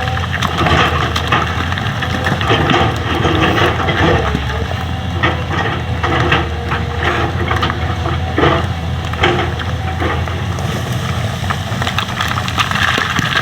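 Excavator's diesel engine running steadily under load, with frequent irregular clanks and knocks and a few short whines from its working gear.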